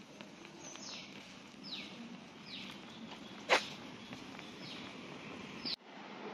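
A bird calling repeatedly: about five short high whistles, each sliding down in pitch, over a soft street background. A single sharp click a little past halfway is the loudest sound.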